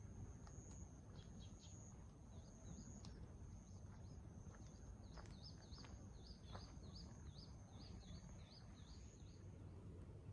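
Faint outdoor ambience near silence. From about halfway in, a small bird gives a run of about ten short chirps, roughly two a second, over a faint steady high-pitched tone that stops near the end.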